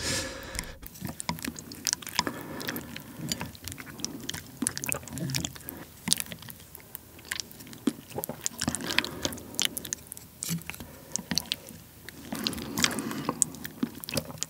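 Close-miked chewing of chewy rice cakes and thick glass noodles in sauce: a run of short, wet mouth clicks and smacks.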